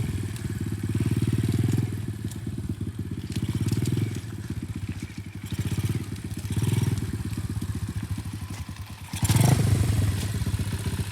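125cc TaoTao DB17 dirt bike's single-cylinder four-stroke engine running at low revs, its note swelling and dropping every second or two as the throttle is eased on and off. About nine seconds in it revs up louder.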